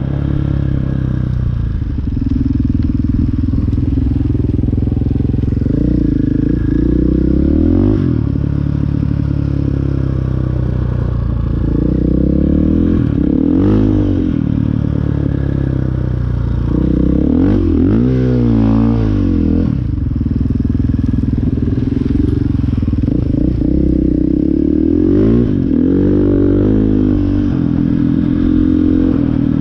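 Dirt bike engine running under way, its pitch rising and falling again and again as the throttle is opened and closed through gear changes.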